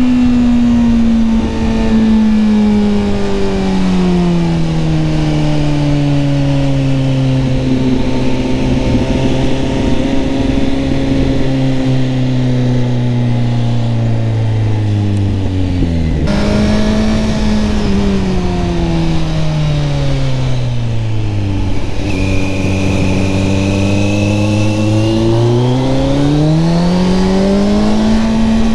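BMW R1100GS boxer-twin motorcycle engine on the move, its revs falling slowly as the bike slows on engine braking. About halfway through the revs jump up suddenly, as on a downshift, then sink to a low steady pitch and climb again near the end as the rider accelerates.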